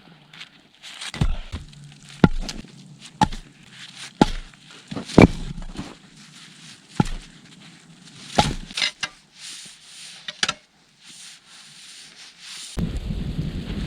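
A series of sharp knocks at uneven spacing, roughly one a second. Wind noise on the microphone comes in near the end.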